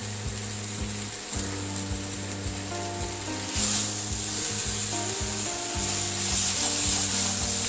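Spatula scraping and stirring chunks of spiced jackfruit, potato and prawn in a kadai as they sizzle over medium heat. The sizzle swells about halfway through and again near the end. Soft background music plays underneath.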